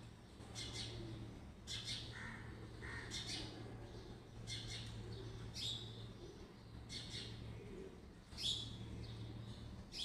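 Birds calling: short, high chirps that drop in pitch, repeating about once a second, over a low steady hum.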